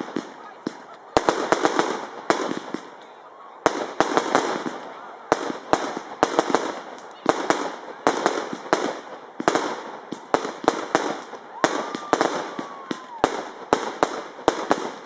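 Aerial fireworks bursting in quick succession: many sharp bangs, often only a fraction of a second apart, with fizzing crackle from the stars between them.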